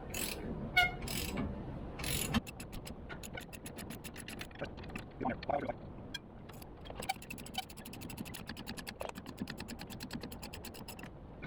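Socket ratchet clicking rapidly as loosened 15/16 nuts are run off the truck's rear backing plate, after a few metal clinks.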